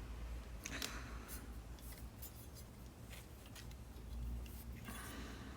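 Wiss aircraft snips cutting a narrow strip of 18-gauge sheet steel: a series of short, crisp snips at an uneven pace.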